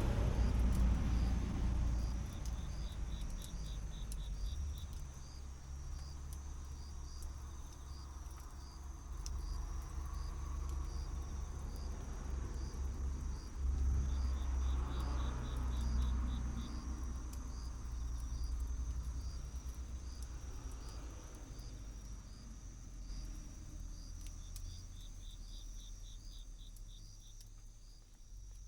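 Crickets and other insects chirping: a steady fast pulsed chirp throughout, with short trills about three seconds in, around the middle and near the end. Under them a low rumble swells at the start and again about halfway through.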